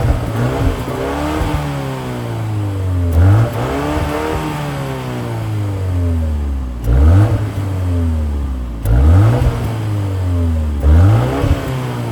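BMW X2 M35i's 2.0-litre turbocharged inline-four and exhaust being revved in a series of short blips, about five in a row. Each rev climbs quickly and then drops back slowly toward idle.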